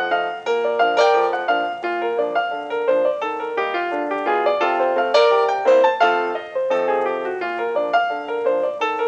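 Piano music with quick, bouncy notes played at a lively, even pace, the kind of accompaniment used for silent films.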